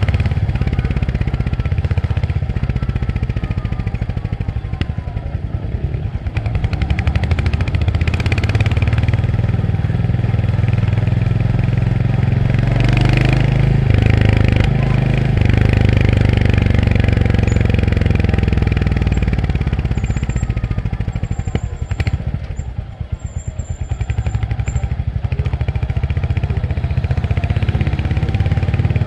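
Royal Enfield Hunter 350's single-cylinder engine running as the motorcycle is ridden. Its pitch falls through the first few seconds, climbs again as it accelerates in the middle, and it eases off briefly twice.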